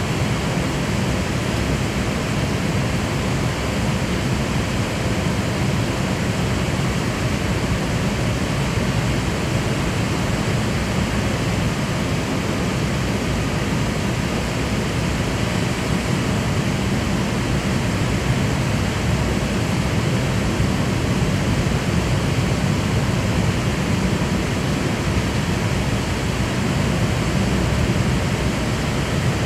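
Steady airliner cabin noise in an Airbus A380: an even rushing of air and engines with a low rumble underneath and a few faint steady tones, unchanging throughout.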